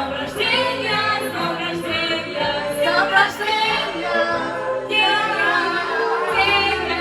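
A group of voices singing together without accompaniment.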